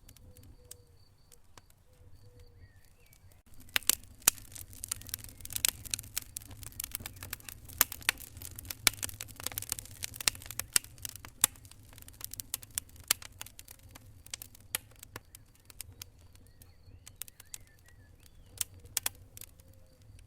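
Wood fire in a fireplace crackling and popping. A few scattered snaps come first, then a thick run of sharp crackles from about four seconds in, thinning out toward the end.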